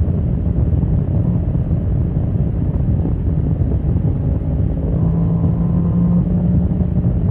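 Motorcycle engine running at speed, with wind noise on the microphone. About five seconds in the engine holds a steady note for a second.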